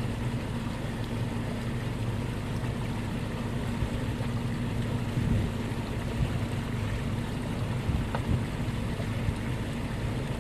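Rushing water from a snowmelt creek running across a washed-out dirt road, a steady loud wash, with a steady low hum underneath.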